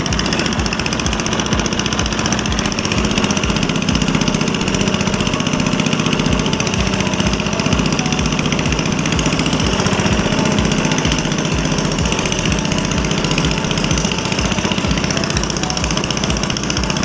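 Small boat engine running steadily at a constant speed while the boat is under way.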